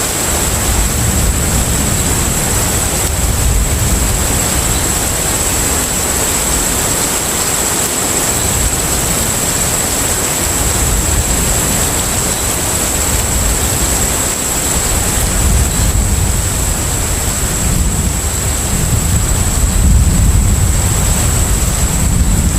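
Steady low rumble of a container ship's engines under way, mixed with the constant wash of sea water, with a steady high-pitched tone running through it.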